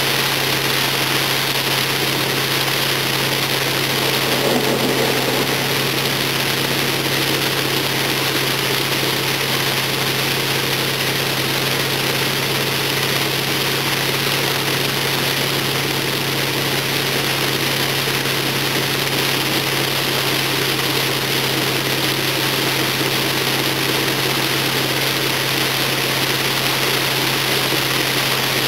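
Car engine running steadily under a constant, even hiss of water and road noise, with no change in engine speed.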